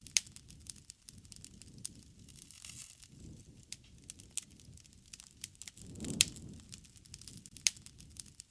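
Wood fire crackling: many sharp pops and snaps of burning wood, with a low flame rumble that swells up now and then. The loudest pops come just after the start, about six seconds in, and shortly after that.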